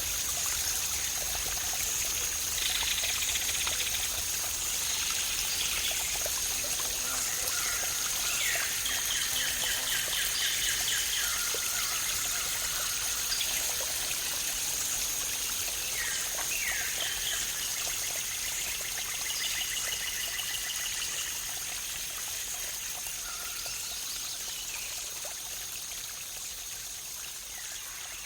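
Waterfall and stream water rushing and trickling, with birds calling several times in short rapid trills over a steady high-pitched whine. The water grows slowly quieter over the last several seconds.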